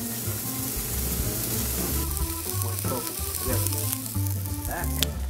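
Oil sizzling steadily as frozen pepper stir-fry vegetables and a salmon fillet fry in two pans on the stove.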